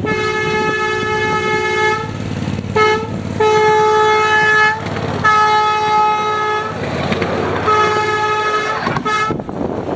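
Horn of a 1/8-scale CSX SD80MAC model diesel locomotive sounding a series of blasts, long ones mixed with short ones, each a steady single-pitched note.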